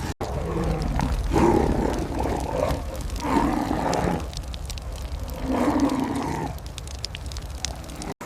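Animal roaring and growling: three long, deep calls, each about a second, over a low rumble.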